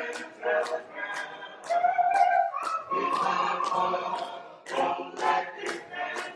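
A cappella gospel choir singing a hymn in voices alone, without instruments, with a long held note near the middle.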